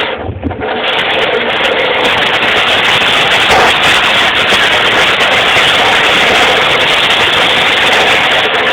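Pallet truck travelling across a shop floor, a loud steady rolling noise, with a brief low bump just after the start.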